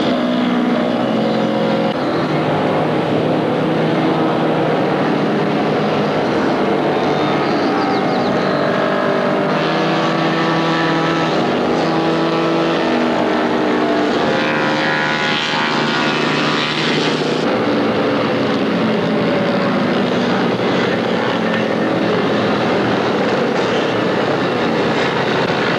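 Racing motorcycle engines running hard, their pitch stepping up and down through the gears as the bikes come round the circuit.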